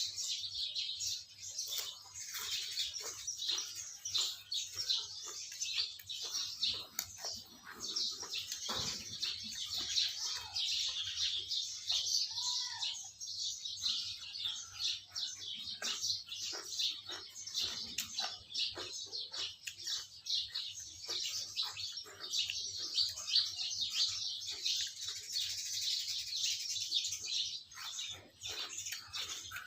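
Many small birds chirping together, a dense chatter of short high calls.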